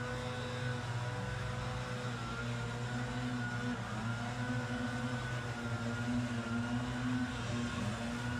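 Petrol engines of outdoor power equipment running steadily at working speed, their pitch wavering slightly.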